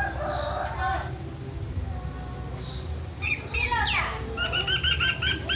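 Orange-headed thrush singing: faint varied notes at first, then about three seconds in a loud burst of high down-slurred notes, followed by a quick run of evenly repeated notes.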